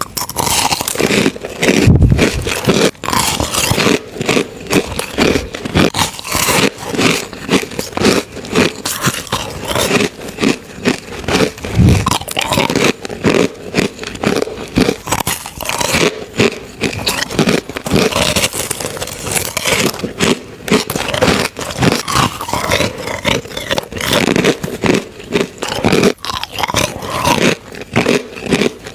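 Crushed ice being bitten and chewed close to the microphone: a dense, continuous run of loud crunches and cracks.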